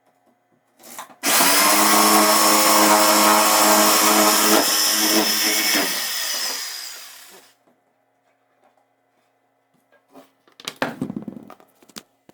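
An electric power tool motor starts, runs steadily with a high whine, then slows and winds down over a couple of seconds. A short burst of knocking and clatter follows near the end.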